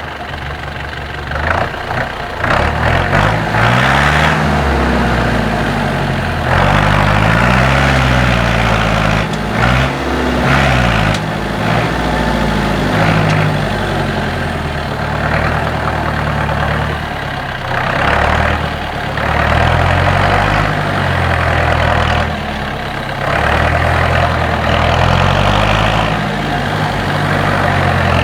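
IFA W50 4x4 truck's diesel engine revving up and dropping back repeatedly, in several surges of throttle as the truck climbs and crawls over rough terrain.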